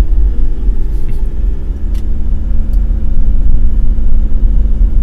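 Diesel engine of a Toyota Fortuner pulling uphill under load on a steep climb, heard from inside the cabin as a steady low rumble with an even drone.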